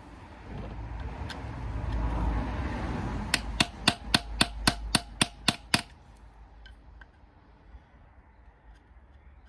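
A hammer tapping about ten times in quick succession, roughly four strikes a second, on the edge of a pressed-in plug in the V of a Mercedes M113 V8 engine block to flip it loose for removal. A muffled rushing noise builds before the taps.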